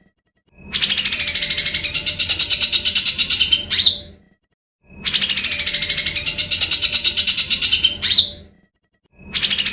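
Looped recording of a bird call: a rapid, pulsing, buzzy trill lasting about three and a half seconds that dips and then rises in pitch and ends in a sharp upward squeak, repeated with short silent gaps so it plays nearly three times.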